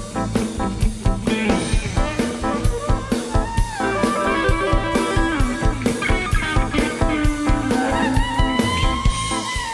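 A live rock band playing an instrumental passage: a drum kit keeps a steady beat under bass, while a lead instrument plays a melodic line with bending, gliding notes.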